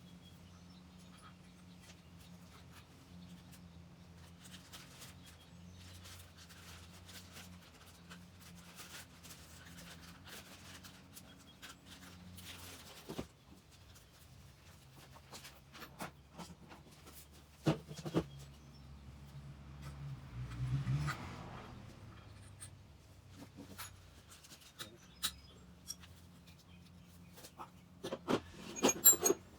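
Hand tools and metal parts being handled while a dirt-bike engine is taken apart: scratchy rubbing and scraping, then scattered sharp metallic clicks and knocks, a cluster of them near the end, over a low steady hum.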